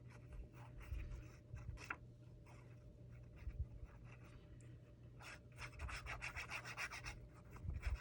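Paper being rubbed and handled by hand: faint scratchy rubbing strokes, sparse at first and coming thick and fast in the second half.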